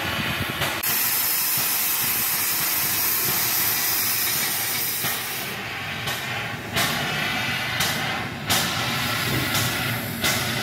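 Class 424 steam locomotive blowing off a loud, steady hiss of steam that starts just under a second in and cuts off after about four seconds. It is followed by sharp beats roughly once a second.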